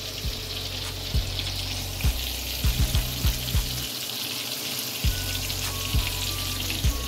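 Breaded fish fillets frying in shallow oil in a stainless steel pan: a steady sizzling hiss with fine crackling, broken by short low thumps every second or so.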